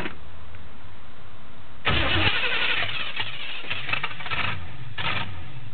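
The 427 V8 of a 1966 Chevelle 300 being started: after a few faint clicks it cranks and fires about two seconds in, running loud and uneven for a couple of seconds, then a second short burst comes near the end.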